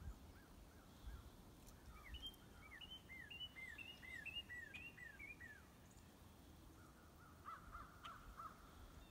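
Faint birdsong: a quick run of about a dozen high, falling whistled notes, then a short series of five lower notes near the end.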